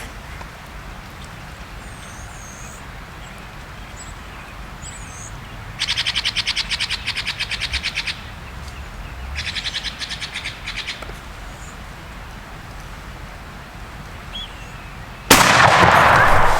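Bird calls: two fast, even trills a few seconds apart, the first louder, with faint high chirps around them. A sudden loud rushing noise starts near the end.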